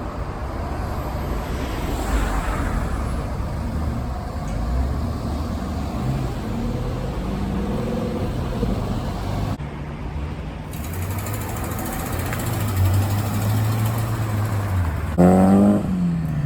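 Car engines running as vehicles drive slowly past one after another, their engine notes rising and falling as they pull away. About fifteen seconds in, a short, loud pitched tone sounds for about half a second.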